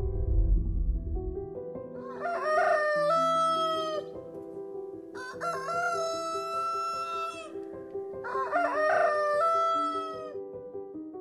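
Rooster crowing three times, each crow about two seconds long, over soft background music. There is a low rumble in the first second or so.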